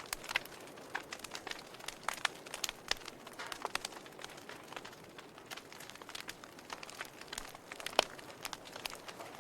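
Wood fire crackling in a fireplace: irregular sharp pops and snaps over a faint hiss, with one louder pop near the end.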